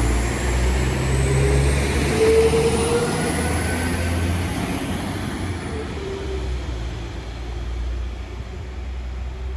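Class 195 diesel multiple unit pulling out of the station: a low underfloor diesel engine drone with thin whining tones that shift in pitch, slowly fading as the train draws away.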